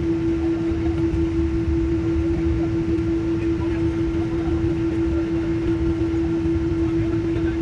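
Airliner cabin noise in flight: a steady low rumble of air and engines with one constant droning hum running through it.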